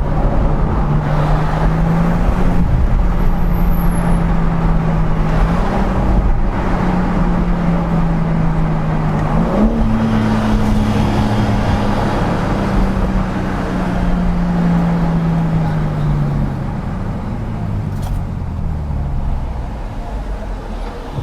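BMW M4 Competition's twin-turbo straight-six running while the car is driven at moderate, fairly steady revs. The engine note jumps up sharply about ten seconds in, then falls away gradually a few seconds later as the car eases off.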